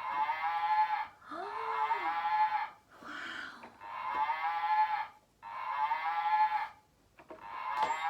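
A cow mooing sound, repeated as about six separate calls of roughly a second each with short gaps between them.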